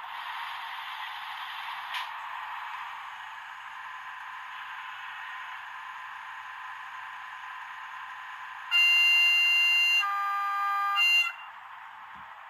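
Sound of an N-scale V160 model diesel locomotive through a tiny speaker: a steady thin engine hum, then about 9 s in a two-tone horn, a higher note for about a second, a lower note for about a second, and a short return to the higher note.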